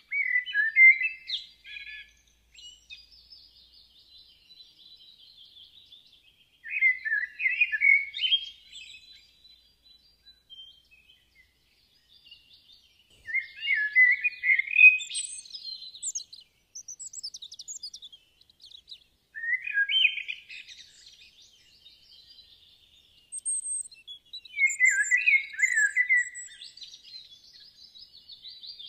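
Birds singing: a song phrase of about two seconds repeats roughly every six seconds, with higher, fainter chirps in between.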